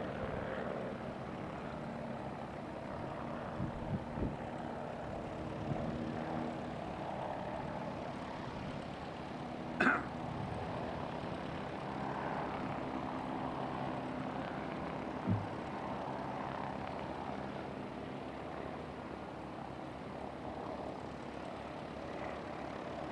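Twin Rotax 912 four-cylinder piston engines of an American Blimp Corp A60 airship running on a fly-by: a steady propeller drone with several held low tones. A few short knocks stand out, the sharpest about ten seconds in.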